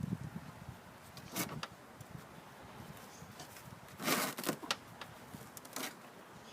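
Hand work on a mower's drive axle: a few short scrapes and clicks of tools and parts, the longest and loudest about four seconds in.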